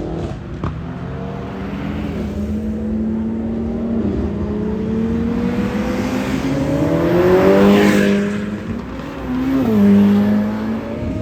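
Supercar engines accelerating hard as they leave, their pitch climbing. The loudest moment is one car going by at full throttle about eight seconds in, and another engine revs up just before the end.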